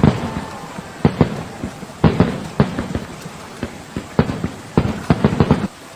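A series of irregular knocks and thumps, about a dozen, over a steady hiss-like background.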